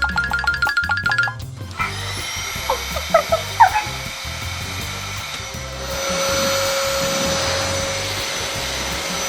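Household vacuum cleaner motor starting up: its whine rises and levels off about two seconds in, then from about six seconds a louder steady rushing hum. A few short high squeaks come around the third second, with background music throughout.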